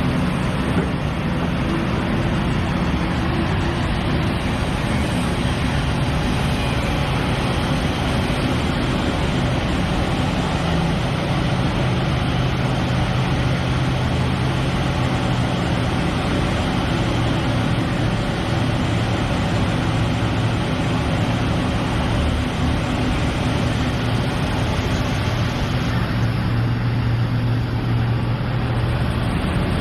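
Liebherr excavator's diesel engine running steadily under work, its low drone shifting pitch a little now and then.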